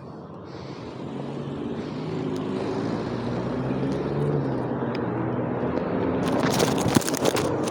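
A motor vehicle's engine grows steadily louder as it draws near, with a crackling rattle over it in the last second or two.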